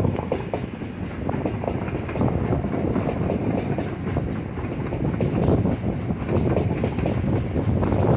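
Electric multiple-unit passenger train passing below, a steady rumble with a rapid run of wheel clicks over the track.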